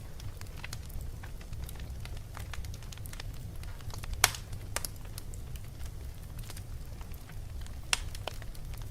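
Wood fire in a fireplace crackling, with scattered sharp pops over a steady low rumble; the loudest pops come about four seconds in and near the end.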